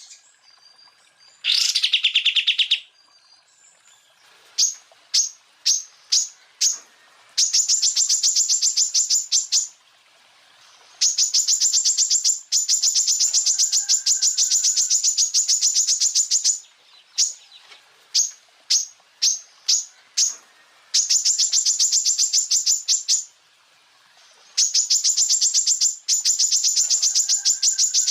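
Greater green leafbird (cucak ijo) song: high, very rapid machine-gun trills ('tembakan') lasting a few seconds each, broken by runs of short single notes, with a rising whistled sweep about two seconds in.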